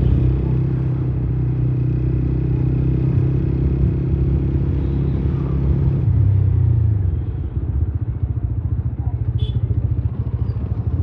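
Motorcycle engine running steadily while riding. About six seconds in its pitch drops and it settles into a slower, pulsing beat as the bike eases off.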